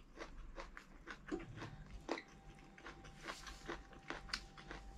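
Faint close-up chewing and biting of air-fried barbecue duck, with irregular soft crunches and mouth clicks several times a second.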